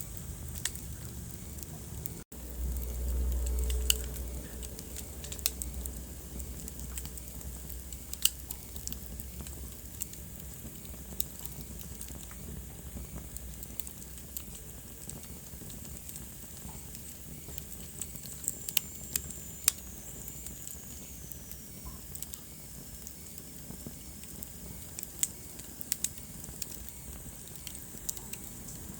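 Wood fire burning in a fireplace: sharp, irregular crackles and pops over a steady low rumble and hiss of the flames. About two seconds in the sound drops out for an instant, and then a louder low rumble lasts a couple of seconds. Later a faint high whistle falls in pitch over a few seconds.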